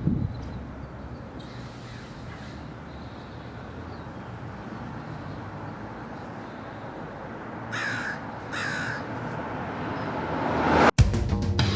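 Crow cawing twice, two short calls less than a second apart, over a steady background hiss. Near the end a rising rush of noise cuts off abruptly.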